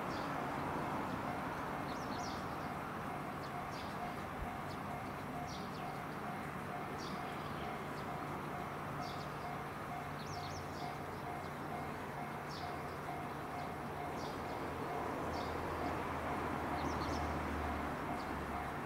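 Short high bird chirps about once a second over the steady low rumble of a JR West 213 series electric train approaching slowly; the rumble swells near the end. A fast, even pulsing tone runs underneath throughout.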